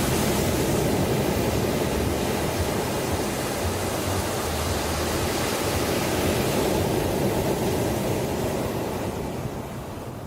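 Ocean surf: waves breaking and washing in as a steady rush that swells twice and eases off near the end.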